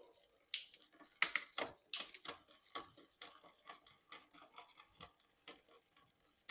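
Bicycle drivetrain clicking and ticking as the cranks are turned and the gears shifted to test a freshly fitted chain. A few sharp clicks come in the first two seconds, then lighter irregular ticks.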